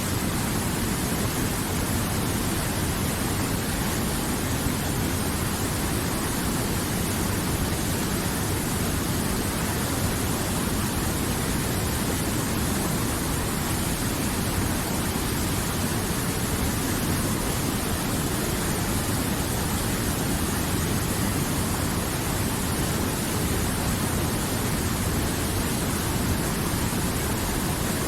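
River water flowing, a steady, even wash of noise that does not change.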